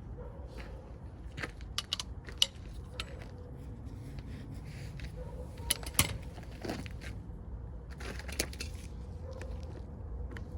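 Scattered sharp metallic clinks and clicks of hand tools and parts being handled during front axle work, the loudest about two and a half and six seconds in, over a low steady rumble.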